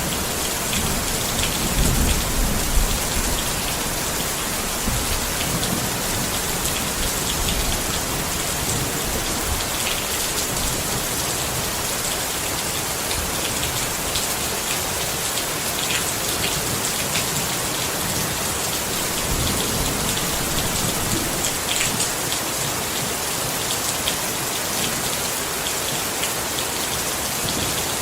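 Steady heavy rain pattering on a tent, with scattered sharper drop hits. A low rumble sits under it for the first few seconds, then fades out.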